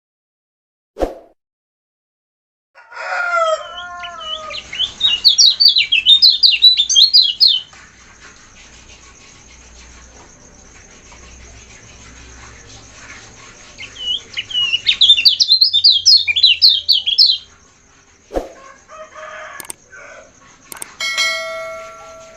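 Kecial kuning songbird singing two bursts of fast, high-pitched twittering warble, each about three seconds long, over a steady thin high tone. A lower falling call comes just before the first burst, and there are single clicks about a second in and near the end.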